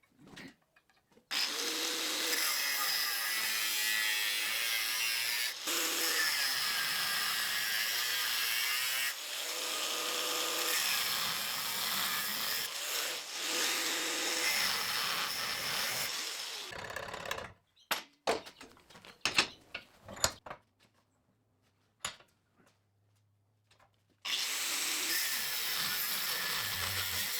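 A handheld power tool working on steel in long runs, with a steady motor tone under the noise of the work. It stops about two-thirds of the way through for a few sharp clicks and knocks, then starts up again near the end.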